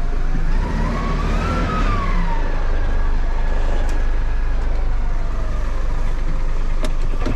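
Tow truck engine idling with a steady low rumble. A tone rises and falls once in the first couple of seconds, and there is a sharp click near the end.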